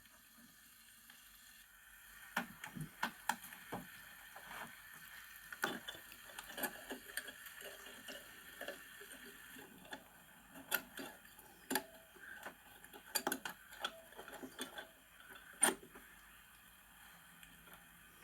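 Irregular clicks and knocks of kitchenware being handled while a stew is prepared, over a faint steady hiss.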